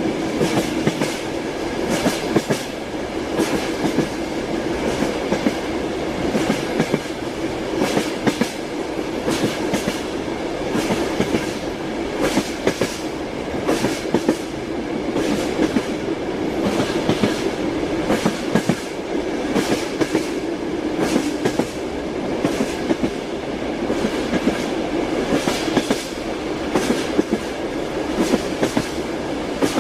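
Train wheels knocking over rail joints while the carriage rolls along at speed: a steady rumble with sharp clacks recurring in quick groups.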